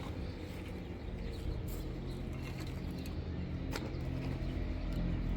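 An engine running steadily with a low hum, with one sharp click nearly four seconds in.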